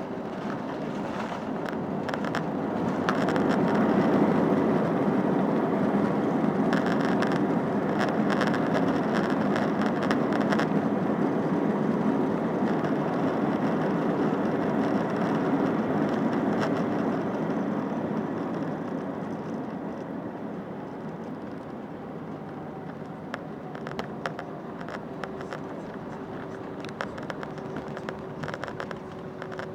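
Cabin noise of an Airbus A319 on its landing roll: the engine roar builds over the first few seconds, as it does when reverse thrust is applied, holds for about fifteen seconds, then eases off as the aircraft slows. Interior panels rattle with small clicks, and a steady engine hum is left near the end.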